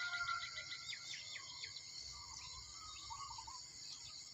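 Dawn countryside ambience: a small bird gives a quick run of short high chirps in the first second and a half, over a steady high hum of insects. Other birds warble faintly around the middle.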